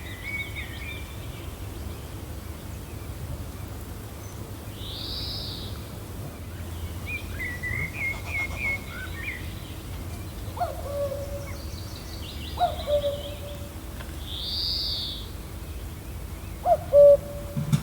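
Several birds calling over a steady low wind rumble: a high arched call twice, about ten seconds apart, short runs of quick chirps, and lower calls that drop in pitch and hold, three times in the second half. The loudest of these comes near the end.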